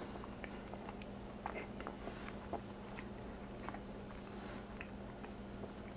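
Faint chewing of a crisp baked tortilla pinwheel filled with cream cheese and jalapeño relish: soft, scattered crunches and mouth clicks over a faint steady hum.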